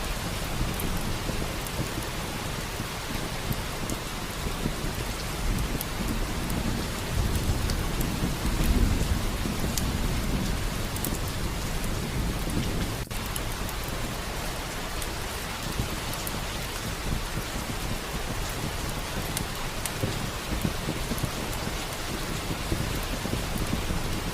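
Steady rain falling, with a low rumble of thunder swelling about a third of the way in. Faint scattered crackles of a wood fire sound through the rain.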